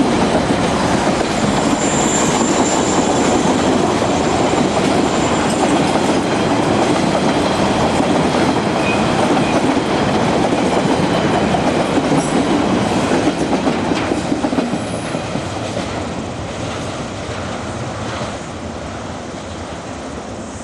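Freight train wagons rolling past, wheels clicking over the rail joints, with a brief high squeal about two seconds in. The sound dies away after about fourteen seconds as the train moves off.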